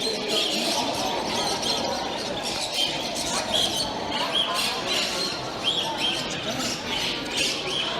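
Many caged pet birds chirping and squawking in short, quick calls, several a second, over a steady murmur of crowd chatter.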